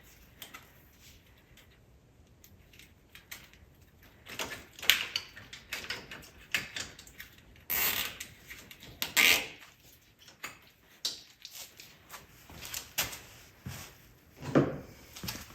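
Irregular clicks, knocks and rustles of hands and tools working on an ATV, with louder scraping bursts about five, eight and nine seconds in, and again near the end.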